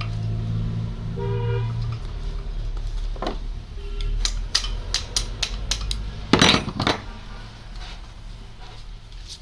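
Metal parts and tools clinking and tapping during an alternator repair: a run of sharp taps about three a second, then a louder clatter a little past the middle. A low hum and a brief pitched tone come in the first two seconds.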